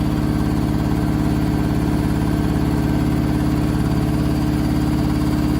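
Candy SmartTouch washing machine in a fast final spin with an unbalanced load: a steady motor hum and drum vibration. The motor is running hot enough to give off burning smoke.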